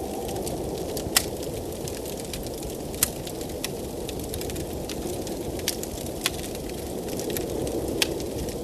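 Wood fire crackling in a fireplace, with sharp pops every second or two, over the steady rushing noise of a blizzard wind.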